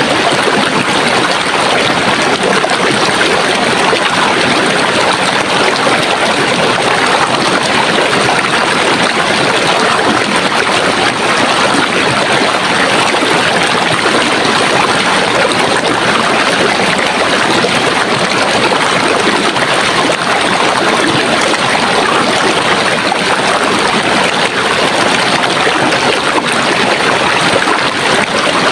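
A stream of running water rushing and splashing steadily, with no change in level.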